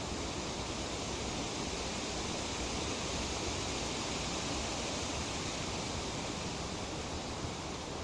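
Breeze rustling tree leaves in a steady, even hiss.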